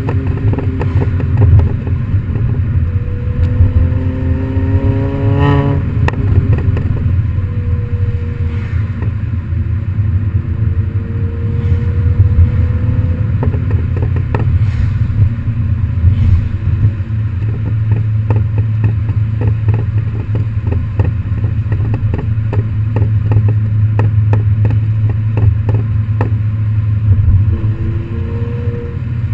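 Modified MINI Cooper Works GP exhaust, loud and continuous. The engine pulls up through the revs for the first few seconds and breaks off sharply about five and a half seconds in, like a gear change or lift-off. After that it runs on more steadily, with a few milder rises, and settles into a steady drone in the second half.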